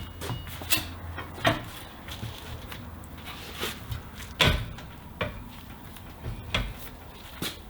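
Scattered metal clanks and knocks from a truck tire being worked on a tire-changing machine, about one every second, over a low steady hum.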